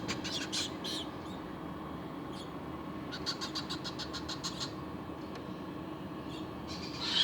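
Baby parrot chicks giving begging calls: two bouts of fast, high chittering peeps, one right at the start and one about three seconds in. A steady low hum runs underneath.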